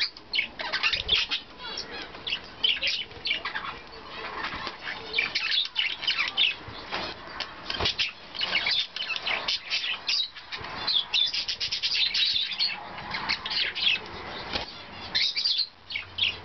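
Pet budgies and cockatiels chirping and chattering in quick, high bursts, with wings flapping.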